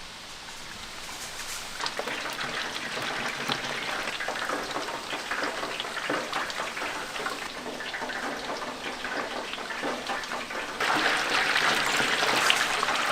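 Battered frogs sizzling and crackling in hot deep-frying oil, a dense patter of small pops that grows louder about two seconds in and again near the end.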